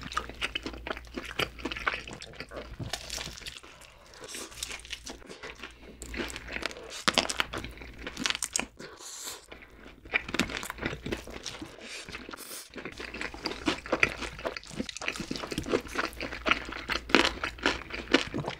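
Close-miked crunching and chewing of fried chicken, including sauce-coated yangnyeom chicken, in irregular crackles and moist mouth sounds, with a couple of brief pauses.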